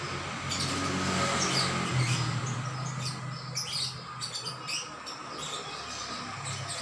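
Songbird chirping in quick runs of short, high chirps and trills over a steady low hum.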